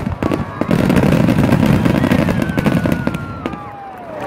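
Aerial fireworks going off in a rapid barrage of bangs, with dense crackling from crackle stars, then tapering off toward the end.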